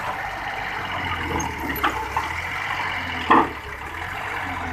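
A heavy diesel engine running steadily under a noisy hiss, with one sharp clank about three seconds in.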